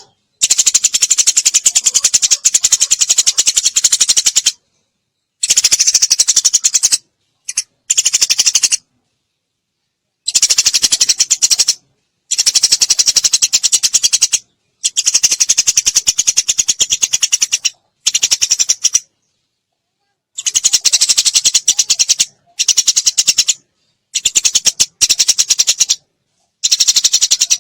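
Eurasian tree sparrow chattering in long, rapid-fire trains of high chirps. The chatter comes in bursts of one to four seconds, separated by abrupt silent gaps.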